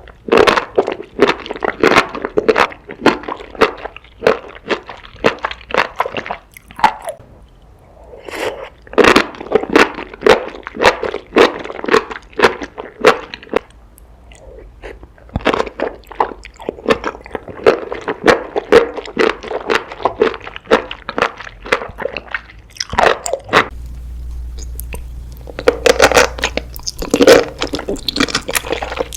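Close-miked ASMR eating: loud crunchy bites and chewing of crisp food, in several bouts of a few seconds each with short pauses between them.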